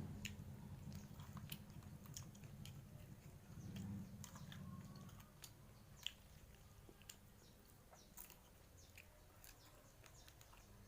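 A person chewing food close to the microphone, with many small, irregular wet mouth clicks and smacks.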